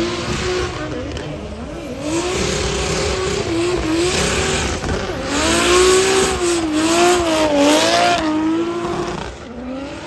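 Drift car engine revving, its pitch rising and falling again and again, over tyre squeal. Loudest in the middle, then it fades toward the end.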